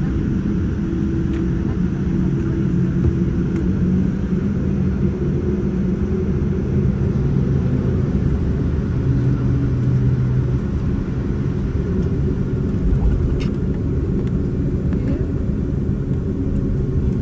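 Steady low cabin rumble inside a Boeing 787-9 on the ground before takeoff, its engines running at low power with a humming undertone. Two faint clicks come in the last few seconds.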